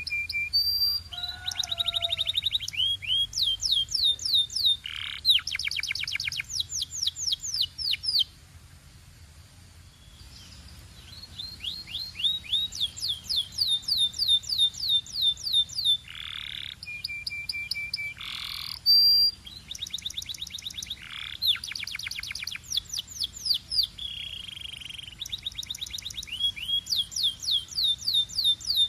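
Domestic canary singing: a string of fast trills and rolls, each a run of rapidly repeated high notes, with one short pause about a third of the way through.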